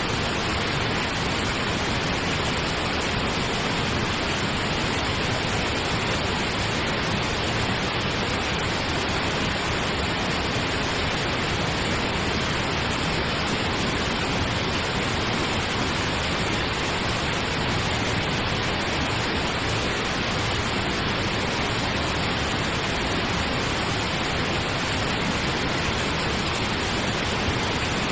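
Steady pink noise: an even hiss across the whole range with no changes.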